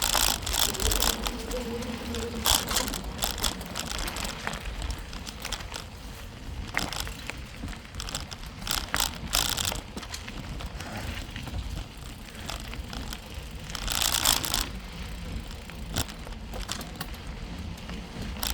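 Bicycle rolling down a rough dirt trail, its tyres and parts giving irregular knocks and rattles over a steady low rumble.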